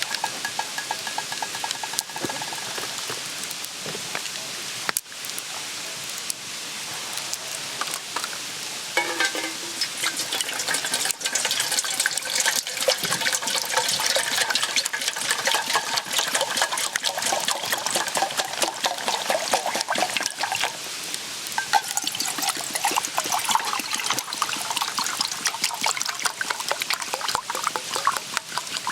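Liquid sizzling and bubbling in a hot pan over a wood fire, a dense crackle that grows louder about nine seconds in.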